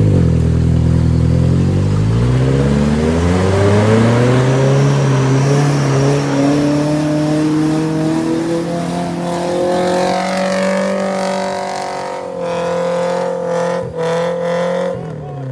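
Off-road 4x4's engine revving hard under load, its pitch climbing steadily over about ten seconds, holding high, then falling away near the end as the throttle comes off.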